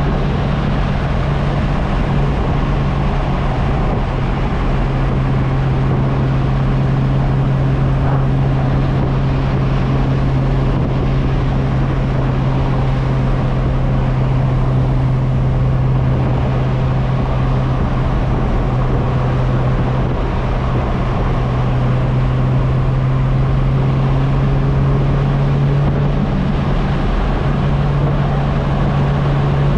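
Turbocharged MK4 Toyota Supra's 2JZ straight-six engine under way at steady revs: a loud, constant low drone that holds one pitch throughout.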